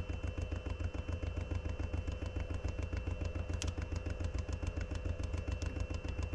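A small engine or motor running steadily, with a fast, even pulse and a faint steady whine over it.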